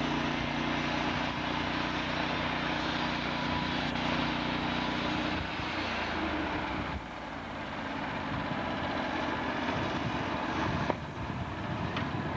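Sawmill running, its engine droning steadily under a hiss of cutting. About seven seconds in the engine note changes and the level dips briefly, then builds back up.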